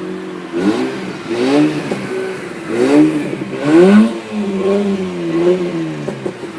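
Mazda RX-8's two-rotor Wankel rotary engine revved in several quick throttle blips, its exhaust note rising and falling about four times, the last two the loudest.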